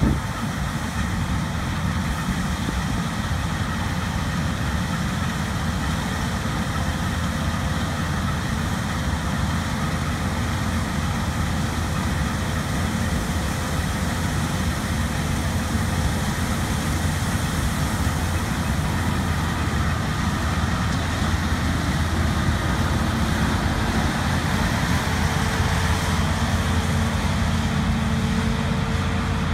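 Large diesel harvest machinery running steadily, a continuous low engine rumble. A steady whine joins in about three-quarters of the way through.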